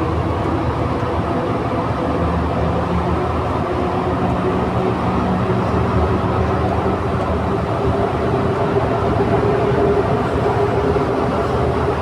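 Santiago Metro NS-93 rubber-tyred train running between stations, heard from inside the car: a steady loud rumble with a faint whine held under it.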